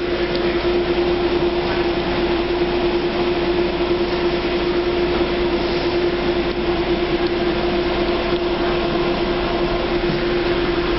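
Docklands Light Railway train running, heard from inside the carriage: a steady rumbling noise with one constant hum held throughout.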